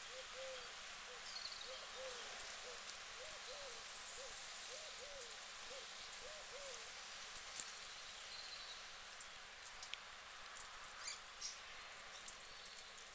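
A bird calling with a run of soft, low hooting notes, mostly in pairs, for about seven seconds, then stopping. Under it is the steady hiss of light rain, with faint scattered ticks later on.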